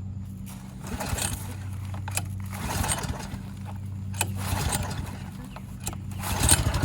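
Air-cooled four-stroke lawnmower-engine outboard motor being pull-started with the choke on. Several short cord pulls turn it over, and it catches and keeps running about six and a half seconds in.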